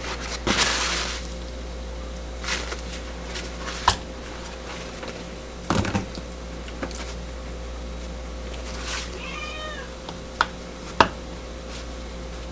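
A cat meows once, a single drawn-out call about three-quarters of the way in. Around it come sharp clicks and knocks and a brief rush of noise near the start, over a steady low hum.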